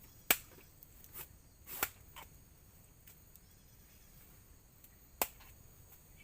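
A few sharp clicks and knocks of camp dishes and utensils being handled during a meal. The loudest comes about a third of a second in, a cluster follows over the next two seconds, and another strong one comes about five seconds in.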